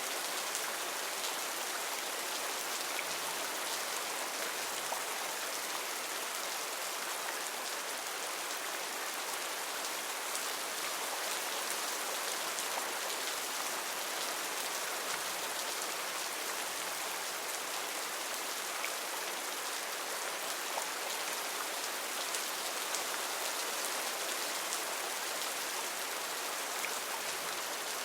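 Heavy rain falling steadily in a rainforest, a dense even hiss with many small drop ticks.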